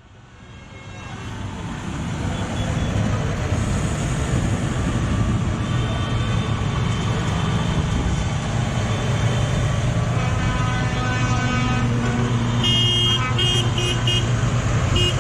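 Tractor engines running steadily in a passing procession, rising in over the first couple of seconds. Near the end a horn toots in several short blasts.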